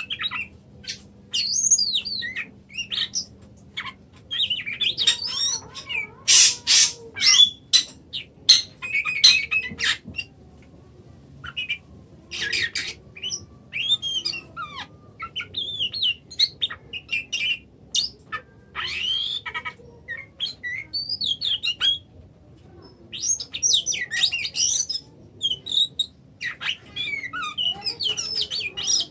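Oriental magpie-robin (kacer) singing: a string of short, varied whistled phrases and chattering notes with pauses between them, broken by harsh rasping calls several seconds in and again around the middle.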